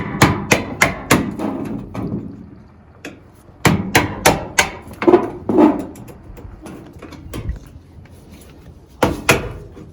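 Hammer blows on a school bus's sheet-metal wall panel, coming in bursts of several quick strikes, about four a second, with a few seconds' pause between bursts and two last blows near the end.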